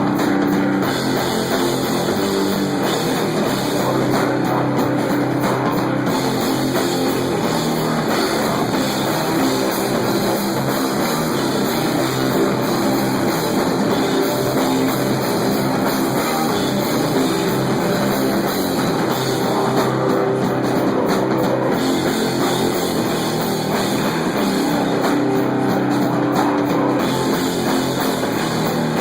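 Live stoner-metal band playing an instrumental passage: heavily distorted electric guitar and bass over a rock drum kit, loud and dense throughout.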